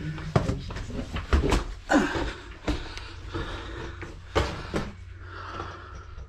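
Irregular knocks and thumps, several sharp and loud, over a steady low rumble: someone clambering into a cave.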